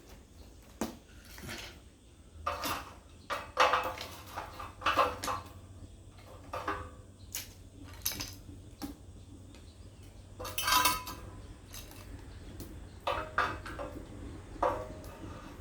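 Metal pieces clanking and clinking as they are handled and set down: a series of irregular sharp knocks, several of them ringing briefly.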